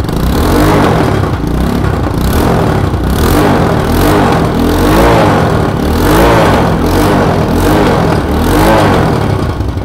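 Motorcycle engine running and being blipped repeatedly, its pitch rising and falling about once a second, making the bad 'bat-bat' noise; the mechanic traces the noise to the exhaust (silencer) pipe joint at the engine, where the collar at the pipe's mouth sits.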